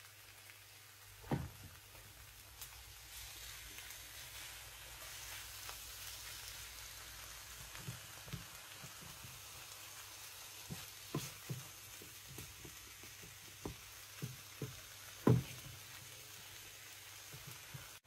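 Diced chicken, onion and garlic frying in a nonstick pan: a steady sizzle, with scattered knocks and taps of a utensil against the pan, the loudest about fifteen seconds in.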